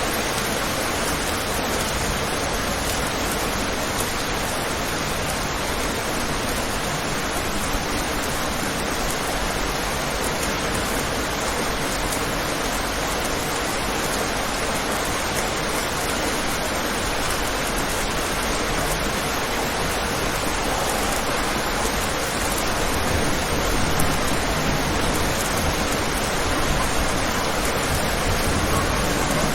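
Steady rain falling on a window, an even hiss with no single drops standing out. It grows a little louder and fuller near the end.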